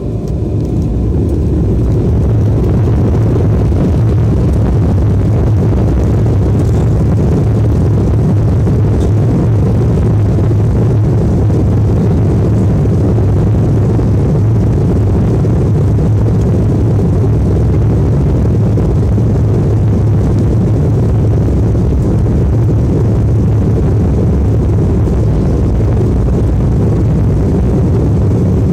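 Airplane taking off: a loud, steady rumble of engines at takeoff power that builds over the first couple of seconds and then holds level.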